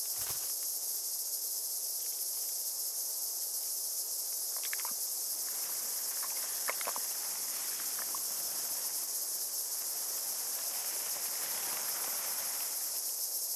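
A steady, high-pitched insect chorus of the steppe runs throughout, with a few faint rustles and ticks in the middle.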